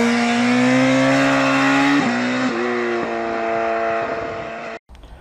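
Sport motorcycle engine revving high and accelerating through the gears, its pitch climbing and then jumping at quick shifts around two and three seconds in. It cuts off abruptly near the end.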